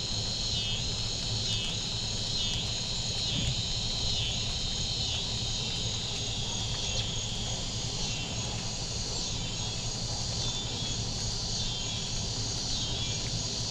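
Chorus of insects, likely crickets, singing in a high pulsing chirp about every two-thirds of a second, evening out into a steadier trill in the second half, over a faint hiss of very light rain.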